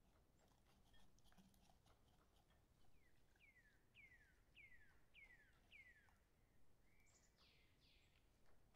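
Faint bird song over near silence: about six quick whistles, each falling in pitch, a little over two a second, then a brief held note and two higher downward sweeps near the end. A few faint clicks between them.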